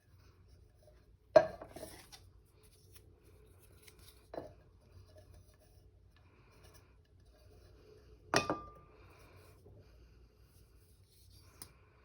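A steel can and craft supplies being handled and set down on a tabletop: a few sharp knocks, the loudest about a second in, and one about two thirds of the way through that rings briefly like metal.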